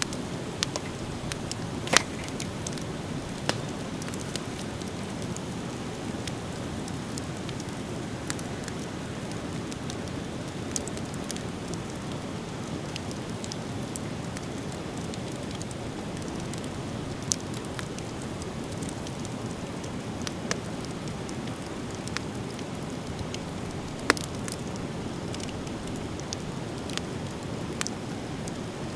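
Driftwood fire burning with a steady low rush and scattered sharp crackles and pops; the biggest pops come about two seconds in and again near the end.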